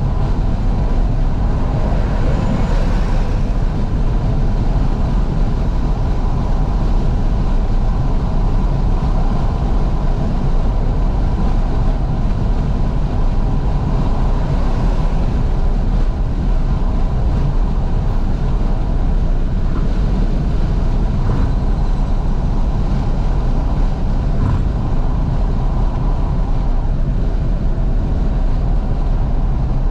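Steady road and wind noise from a 2012 Fiat 500S driving along with its windows wide open, the engine running underneath.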